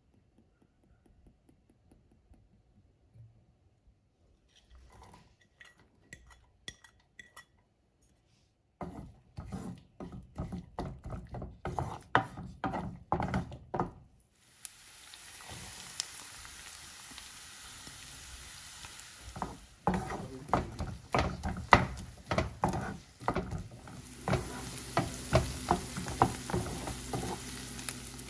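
Chopped garlic and onion frying in olive oil in a nonstick frying pan, stirred with a wooden spatula: quick scraping and tapping strokes against the pan over a sizzle that becomes steady and stronger about halfway through. The first several seconds are nearly silent.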